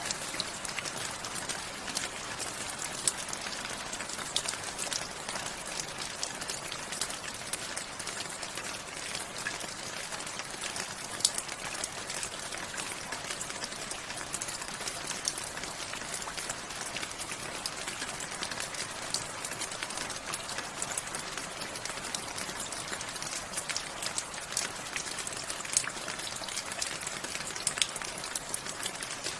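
Steady rain falling, with many separate drop hits standing out above a continuous hiss.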